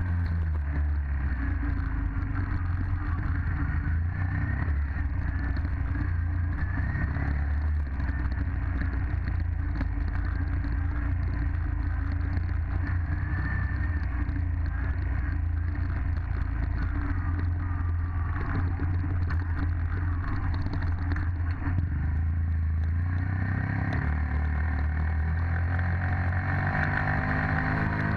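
Dirt bike engine running at a fairly steady speed, its pitch shifting a few times.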